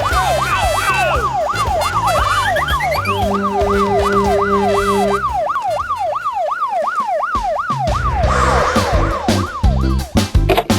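Fast yelping emergency-vehicle siren, its pitch sweeping up and down about three times a second, over background music with a steady beat. The siren stops about nine seconds in, leaving the music.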